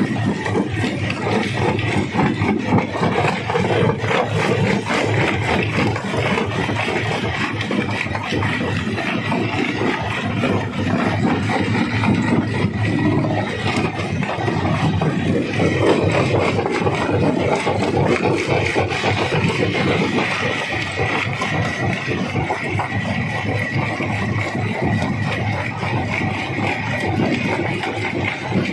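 Large rock crusher running and crushing stone: a steady machine drone with constant rattling and grinding knocks of rock.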